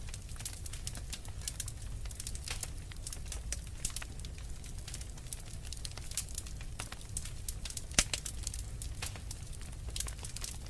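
Wood fire in a fireplace crackling, with irregular sharp snaps and pops over a steady low rumble of flames. One pop about eight seconds in is louder than the rest.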